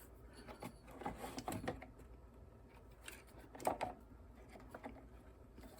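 Faint, scattered clicks, scrapes and knocks of a lawnmower fuel tank being worked back into place on a Tecumseh engine. The loudest knock comes a little before four seconds in.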